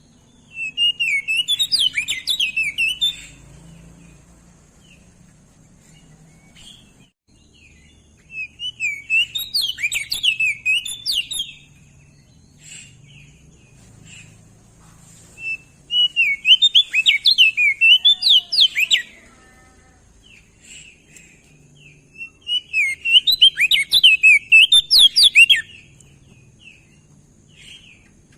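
An opior jambul (crested white-eye) singing. It gives four bouts of about three seconds each, a fast, varied jumble of chirps and quick whistled slurs with high twitters over them, separated by pauses of about four seconds.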